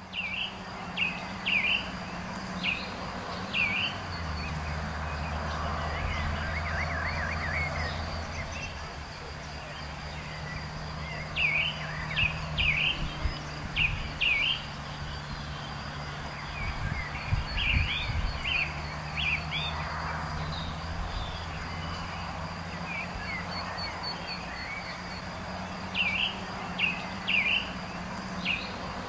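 Outdoor ambience: a bird sings short phrases of three or four quick sweeping chirps, repeated every few seconds, with a brief trill near the start. Underneath run a steady low hum and a faint steady high tone.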